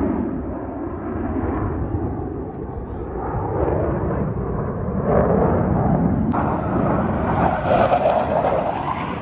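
Airplane engine noise from an aircraft flying at an airshow, a steady rushing sound that swells about five seconds in and again near the end, with voices mixed in.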